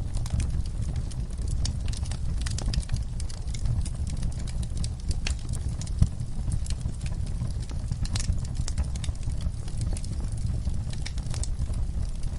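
Wood fire crackling in a fireplace: scattered snaps and pops over a steady low rumble of burning, with one sharper pop about six seconds in.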